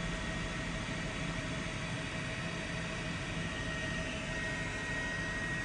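Steady hiss and hum of a fire-department radio channel between transmissions, with a faint constant high-pitched tone.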